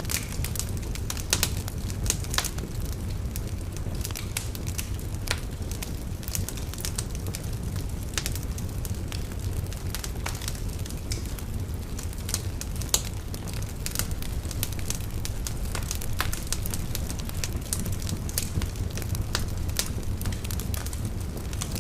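Wood fire burning in a fireplace: a steady low rumble of flames with frequent sharp crackles and pops scattered irregularly through it.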